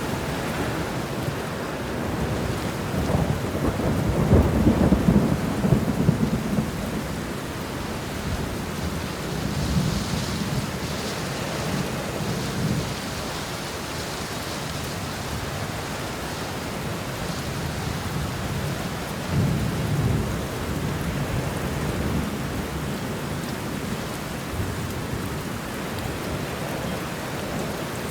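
Steady rain falling, with thunder rumbling low beneath it: the loudest roll swells about four to six seconds in, with softer rolls around ten and twenty seconds in.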